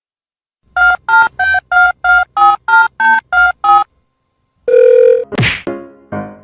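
A run of about ten short electronic beeps, roughly three a second, at slightly changing pitches. It is followed by a held tone and a quick falling sweep.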